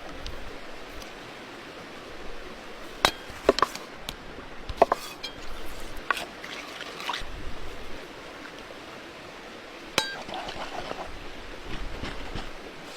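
Scattered sharp clinks and knocks of dishes and utensils over a steady background hiss, with the loudest strikes about three seconds in and again near ten seconds.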